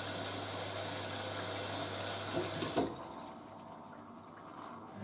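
Hoover A3060 washing machine filling with water for the second rinse: a steady rush of inflowing water over a low hum, which cuts off about three seconds in as the fill stops, leaving it much quieter.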